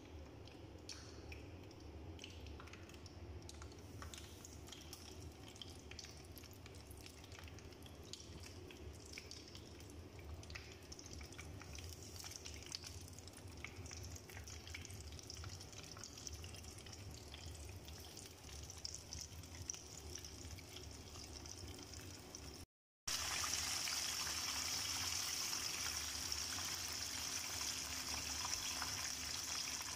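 Flour-coated chicken pieces deep-frying in a pan of oil: a steady sizzle with small crackles and pops, clearly louder after a brief gap a little over two-thirds of the way in.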